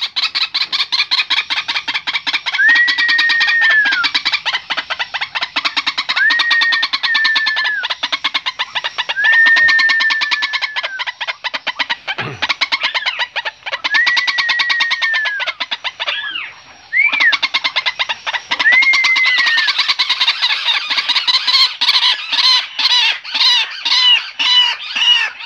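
White-breasted waterhens (ruak-ruak) calling loudly and without pause: a rapid, harsh pulsed chatter, with a longer call note every three or four seconds that turns to faster repeated notes near the end. It is the calling of a parent bird with chicks.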